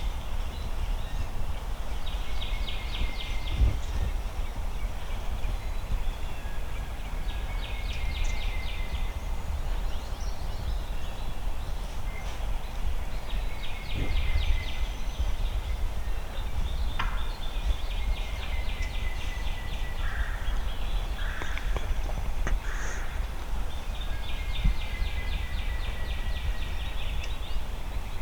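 Wild turkey gobblers gobbling: five rattling gobbles spaced several seconds apart, with a few short lower calls in the middle. A steady low wind rumble runs underneath.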